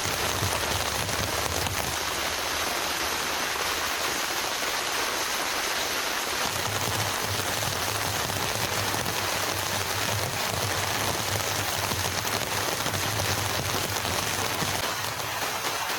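Heavy rain falling steadily, with a low rumble underneath from about six seconds in until near the end.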